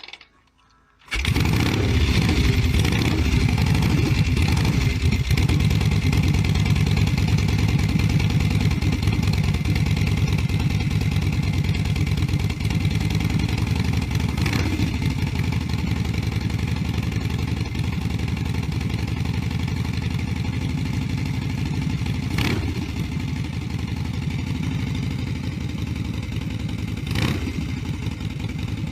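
Motorcycle engine starting about a second in, then running steadily at idle, with a few brief clicks.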